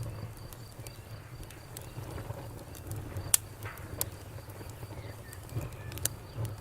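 Campfire burning with a low steady rumble and scattered sharp crackles and pops, the loudest pop a little past three seconds in.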